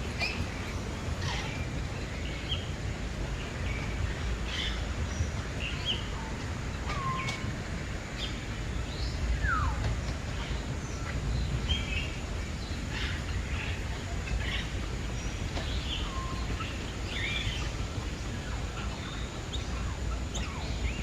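Several birds chirping and calling in short, scattered notes, with one call gliding down in pitch about halfway through, over a steady low background rumble.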